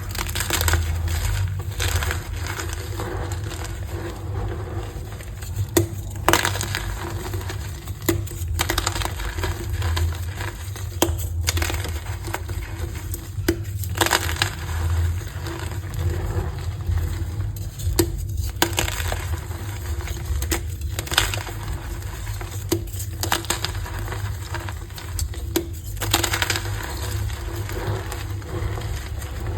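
Reformed blocks of gym chalk being crushed and crumbled, a dense run of irregular crisp crackles with sharper snaps every second or two.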